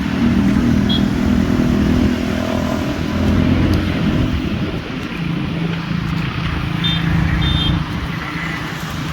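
Road traffic: motor vehicles running past with a steady engine hum that drops in pitch about halfway through, over a constant traffic noise. A few brief high beeps sound about a second in and twice near the end.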